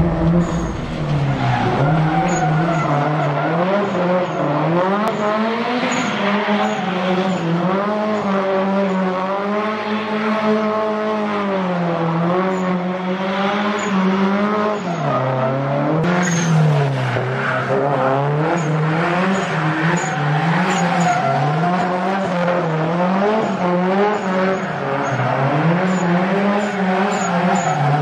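Subaru Impreza WRX STI's turbocharged flat-four boxer engine revving hard during a drift, its pitch rising and falling over and over, every second or two, as the throttle is worked.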